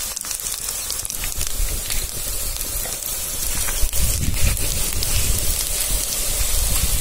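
Chopped onions and spice powders sizzling in hot oil in an aluminium pot over a wood fire: a steady frying hiss with scattered light clicks. A low rumble comes in about halfway through.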